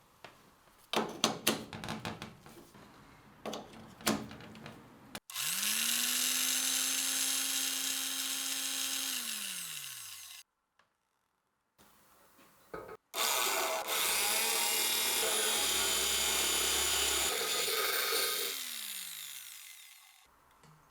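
Old electric drill run twice after restoration: each time the motor spins up to a steady whine, runs for several seconds, then winds down as the trigger is released. Several sharp clicks of handling come before the first run.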